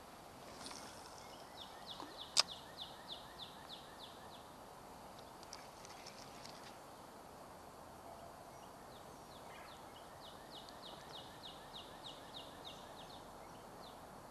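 Faint bird song: a run of about a dozen quick falling whistled notes, then a few scattered notes, and the run again about nine seconds in. A single sharp click a little over two seconds in is the loudest sound.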